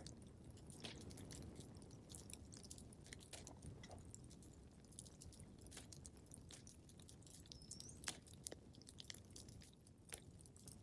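Wood fire crackling in a fireplace. Frequent small snaps and pops sit over a low, steady rush of flame, with a few sharper pops about 8 and 10 seconds in.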